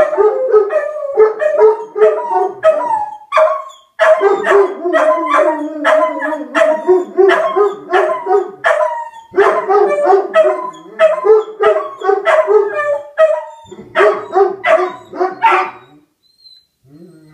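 Dogs, a beagle and a German shepherd, howling and baying in quick repeated calls, about three a second, with a short break about four seconds in. The calls stop about a second before the end. The howling is set off by a tornado siren.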